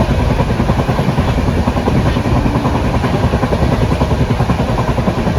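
Loud, steady rushing and rattling of a passenger train in motion, heard from aboard.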